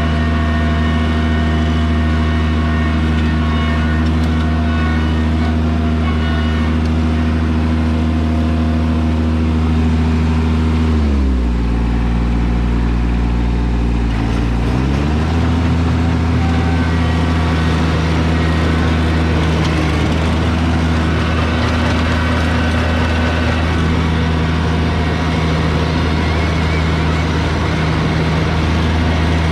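Kubota BX2200 compact tractor's three-cylinder diesel engine running steadily. About eleven seconds in, the engine note drops in pitch and stays low for a few seconds, then climbs back to its earlier speed.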